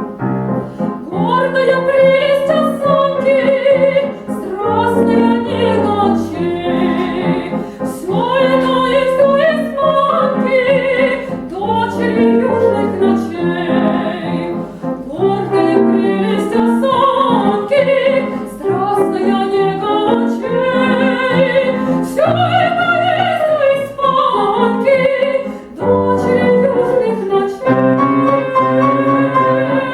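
Classical female voice singing an operatic piece with vibrato, in phrases separated by short breaths, accompanied by a grand piano.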